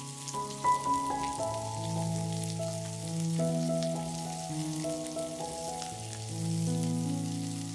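Chicken seekh kebabs sizzling and crackling in oil on a hot ridged grill pan as oil is brushed over them, with scattered small pops. Background music of held notes plays over it.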